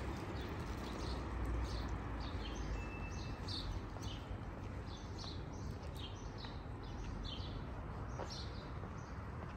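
Small birds chirping, many short chirps in quick succession, over a low steady background rumble.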